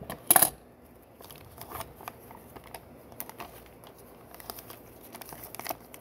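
Plastic Lego bricks being handled and pressed into place: a loud clatter about half a second in, then scattered light clicks.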